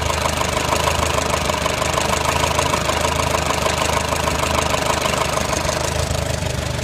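Farmall A tractor's four-cylinder engine idling steadily with an even pulsing beat.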